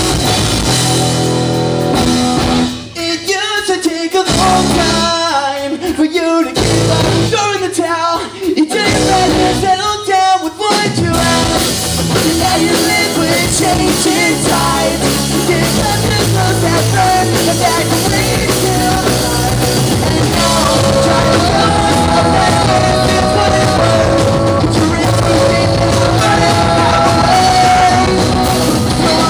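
Live rock band playing loudly. There are stop-start hits with brief breaks through the first ten seconds or so, then steady full-band playing with a melodic lead line.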